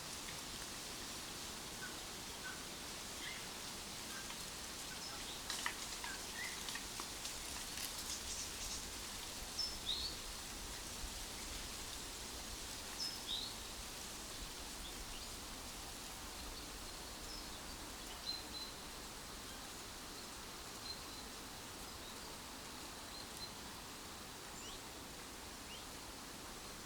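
Woodland ambience: a steady rustling hiss with scattered short bird chirps and calls, busiest in the first half. A few sharp clicks stand out between about five and ten seconds in.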